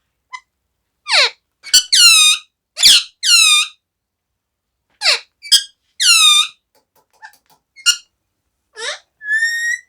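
Pet parrot squawking: a run of loud, shrill calls that mostly slide down in pitch, coming in clusters with short silences between, and a steadier high whistled note near the end.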